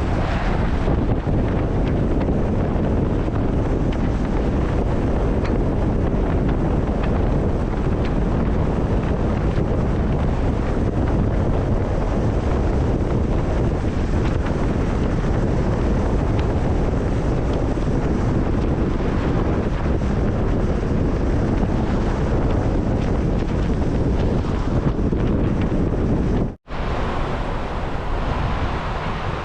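Steady roar of a waterfall's rushing water, with wind noise on the microphone. The sound drops out for an instant near the end, then carries on.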